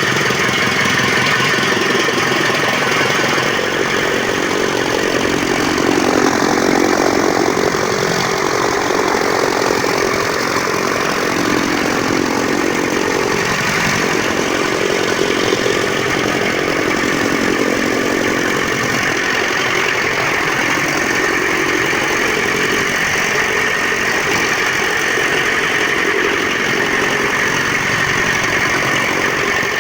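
Motor-driven straw and grass chopping machine (chaff cutter) running steadily while cutting straw into short pieces for cattle feed.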